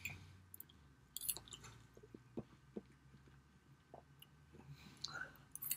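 Faint close-miked chewing of a cheese omelet, with scattered light clicks of a metal fork against a ceramic baking dish.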